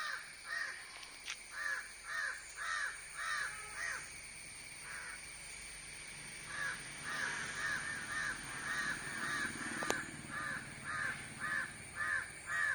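Crows cawing in fast runs of about two to three calls a second, easing off about four seconds in and then resuming thickly: alarm calls of parent crows guarding their grounded, not yet flying chick, which the filmer takes as anger at his coming near it. A single sharp click near ten seconds.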